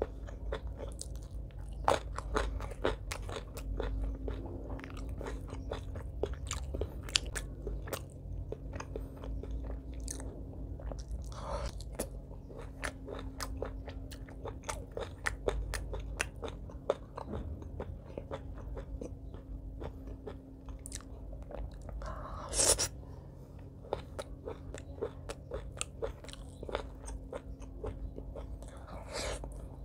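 Close-miked chewing and crunching of rice topped with crispy fried potato sticks, a dense run of small crunches and wet mouth clicks. A few longer, louder mouth sounds stand out, the loudest about two-thirds of the way through.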